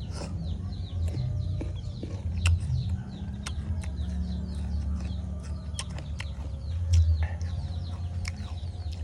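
Close-up eating sounds of raw kedondong (ambarella): sharp crunchy bites and chewing, with a low rumble swelling about seven seconds in. Chickens call in the background throughout, in many short high chirps.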